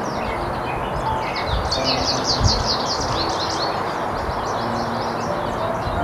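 Songbird singing: quick runs of high chirping notes, loudest about two seconds in, over a steady low background noise.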